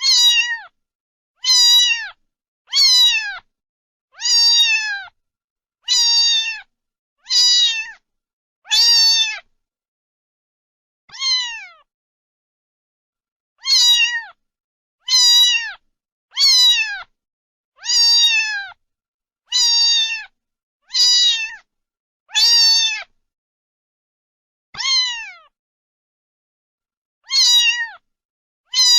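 A cat meowing over and over: about seventeen short, high-pitched meows, each falling in pitch at the end, coming roughly every second and a half with a few longer pauses.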